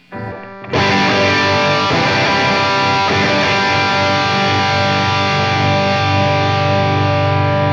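Distorted electric guitar played through a Line 6 HX Stomp's Marshall JCM 800 amp model: one chord struck under a second in and left ringing, after a faint hum.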